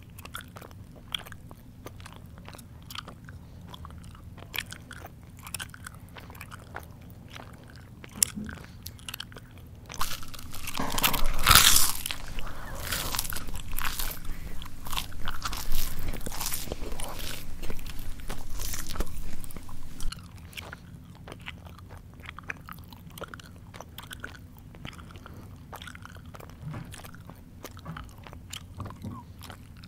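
A person chewing close to the microphone, with soft, wet mouth clicks and smacks. About a third of the way in, some ten seconds of loud crunching on crunchy food break in. Then the quieter chewing returns.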